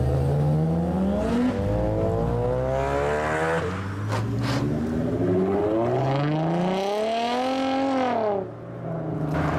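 Engines of lowered cars driving off one after another, each note rising as the car accelerates away. Later, a long rev climbs and then falls off, and the sound dips briefly near the end.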